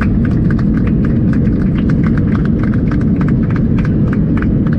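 Airbus A321 rolling on the runway, heard from inside the cabin: a loud, steady rumble from the wheels, with rapid irregular rattling and clicking of cabin fittings several times a second.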